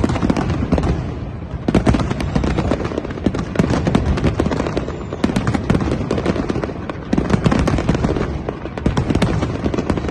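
New Year fireworks display going off in a dense barrage: rapid crackling and popping of many shells, with booming bursts over it, without pause.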